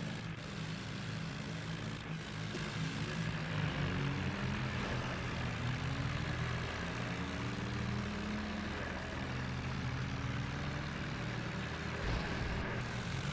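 Tractor engine running steadily, its speed rising and falling a little as it works.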